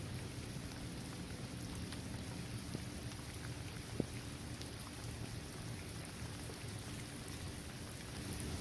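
Steady rain falling on a paved basketball court, trees and grass, with scattered individual drops ticking. One sharper drop stands out about halfway through.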